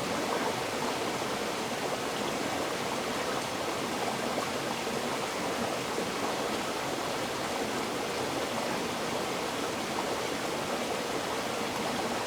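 River water flowing over rocks, a steady rushing babble without breaks.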